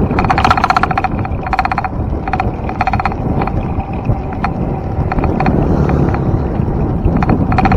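Wind rushing over the microphone of a moving bicycle, with repeated short bursts of rapid high-pitched ticking from the bike.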